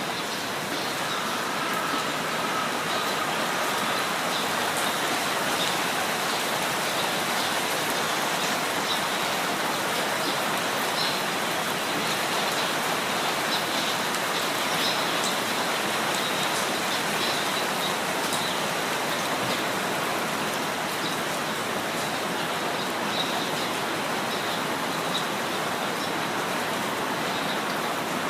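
Steady rain falling, with small birds chirping faintly through it.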